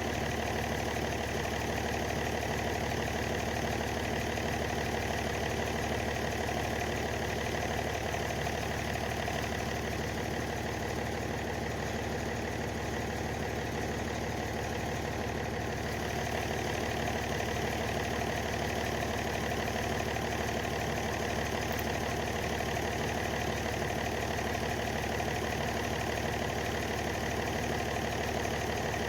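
Tractor engine idling steadily, dipping slightly for a few seconds midway.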